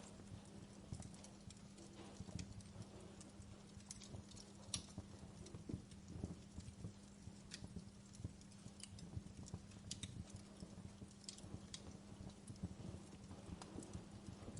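Wood fire burning in a fireplace: irregular, soft crackles and pops over a low rumble.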